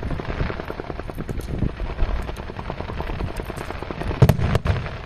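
Fireworks going off in a rapid, dense string of pops and cracks, with a louder bang about four seconds in.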